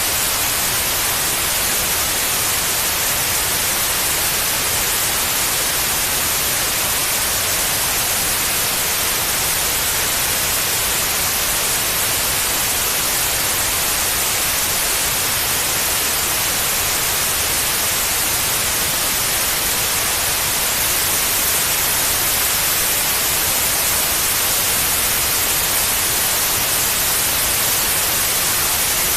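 Steady white noise played as a baby sleep aid: an even, unchanging hiss, bright and strongest in the treble.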